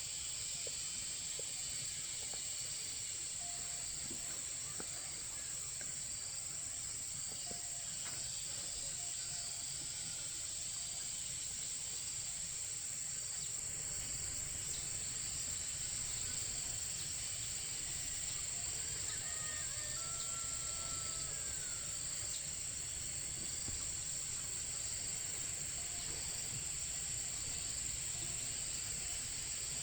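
Insects droning in a steady high-pitched chorus, with faint chirps repeating about once a second over it.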